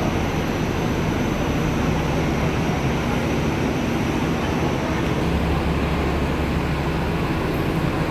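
Steady low engine hum and rumble of a moving vehicle, even throughout with no distinct events.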